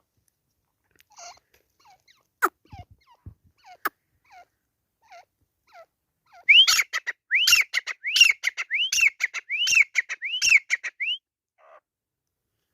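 Grey francolin calling: a few soft, low, short notes and a couple of sharp clicks, then about halfway in a loud run of about seven high, arched whistled notes, roughly one and a half a second, with clicking between them.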